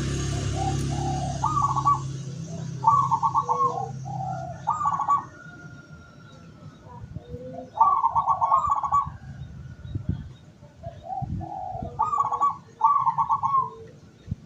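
Zebra doves (perkutut) cooing: repeated phrases of quick stuttering coos, each about a second long, led in by a few softer notes. A low hum sits under the first four seconds or so.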